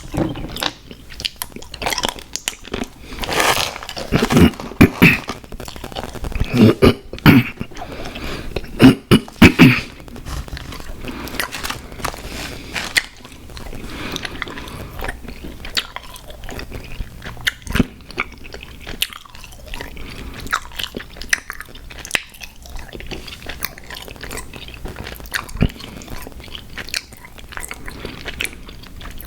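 Close-miked eating of sour gummy worms cereal. Loud crunching bites come between about three and ten seconds in, then quieter steady chewing with small wet clicks.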